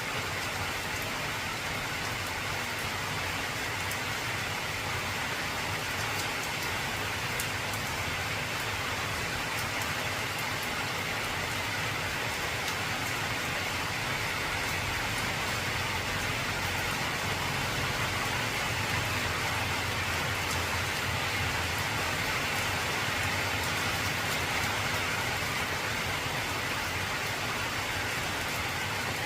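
Heavy rain falling steadily on an old corrugated zinc roof: a dense, even hiss with fine patters of drops on the metal. A low rumble swells slightly in the second half.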